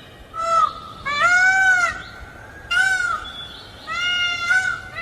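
Green peafowl calling repeatedly: about five loud, arching calls, short ones and longer ones, with brief gaps between them.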